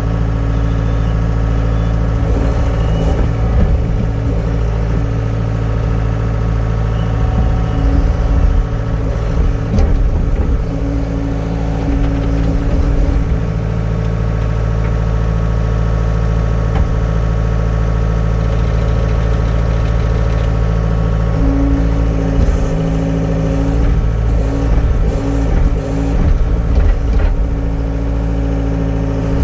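Yanmar 3.3 L four-cylinder diesel engine of a John Deere 324E skid steer running at a steady speed, with scattered short rattles.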